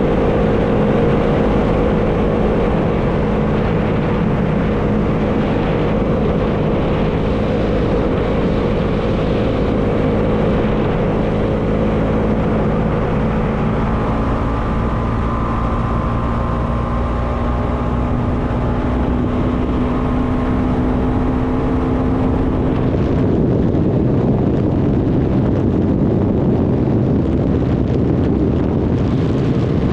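Bajaj Dominar 400 motorcycle engine running at steady cruising revs, with wind rushing over the microphone. About two-thirds of the way through, the engine note drops back and the wind noise takes over.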